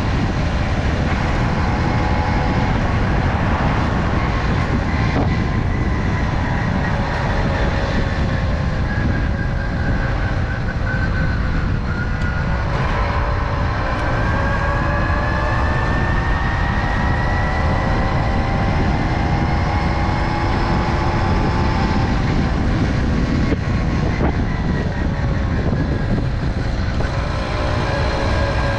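Tomos Silver Bullet moped's small two-stroke engine running under way, its pitch sinking and climbing again as the revs change, over a steady low rumble.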